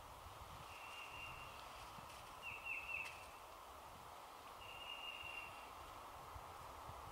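Faint high bird calls over a steady background hiss of the woods: two thin held notes about a second long, and between them a quick run of three short falling notes.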